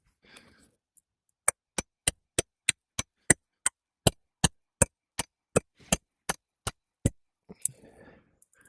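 A hammer striking roofing nails on an asphalt shingle roof, a steady run of about seventeen sharp blows at roughly three a second, stopping about seven seconds in: fastening a replacement three-tab shingle.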